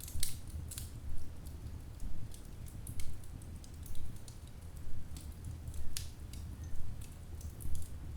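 Log fire crackling: sharp, irregular pops and snaps over a low, steady rumble of the flames.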